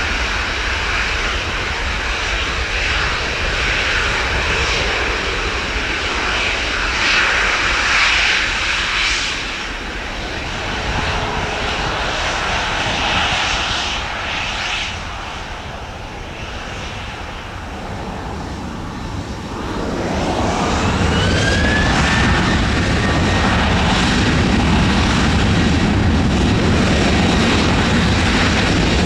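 Boeing 737-800's CFM56 jet engines running at low power, then spooling up about two-thirds of the way in: a rising whine that settles into a steady high tone as the engines reach take-off thrust, the noise growing louder and staying steady.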